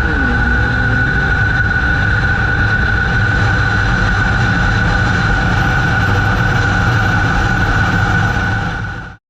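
Steady vehicle noise: a continuous low rumble with a constant high tone over it, cutting off abruptly near the end.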